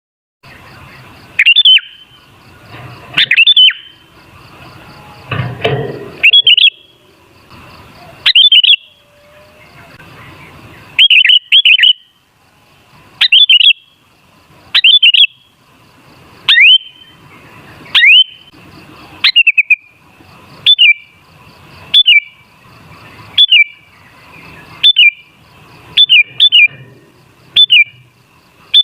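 Sooty-headed bulbul (kutilang) calling: loud, short, sharp notes repeated every second or two, coming more quickly and evenly near the end. A brief lower, rougher noise sounds a few seconds in.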